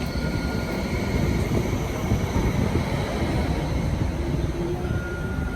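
Hong Kong Light Rail Phase III car moving along the platform: a steady low rumble of steel wheels on track, with a faint high, steady electric motor whine over it.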